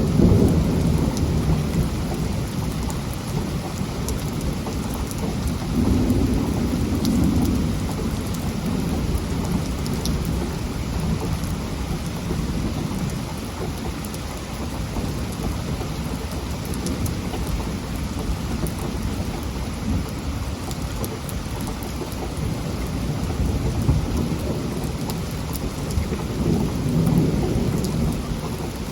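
Heavy rain falling steadily, with thunder rumbling low under it, swelling at the start, again about six seconds in, and once more near the end.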